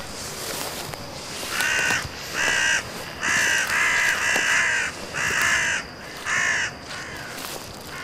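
A bird calling repeatedly, about seven short calls in quick succession, starting a couple of seconds in.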